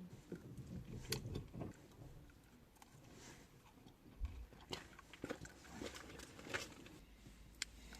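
Close-miked eating: crunchy bites and chewing, with irregular sharp crunches and clicks, the loudest about a second in and in the second half.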